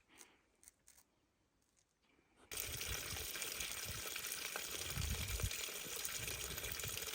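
Near silence with a few faint ticks. About two and a half seconds in, a steady rush of flowing water cuts in and holds.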